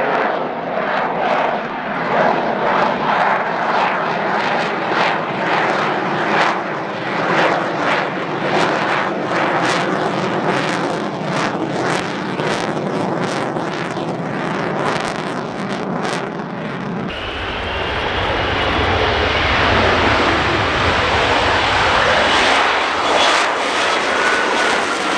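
F-35B's F135 jet engine roaring loudly, laced with sharp crackles. About two-thirds of the way in the sound changes abruptly to a deeper, smoother rumble.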